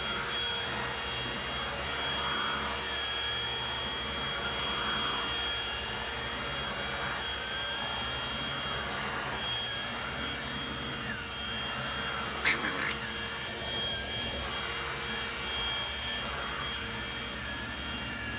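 Handheld vacuum cleaner running steadily, with a high whine whose pitch wavers up and down as it works over the dog's coat. A single sharp click comes about twelve seconds in.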